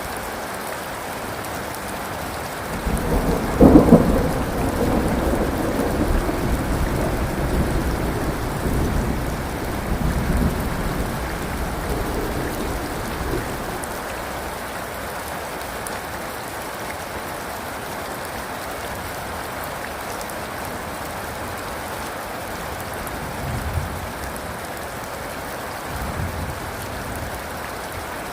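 Steady heavy rain hissing, with a thunderclap about three seconds in that rumbles on and fades over roughly ten seconds. Two faint distant rumbles follow near the end.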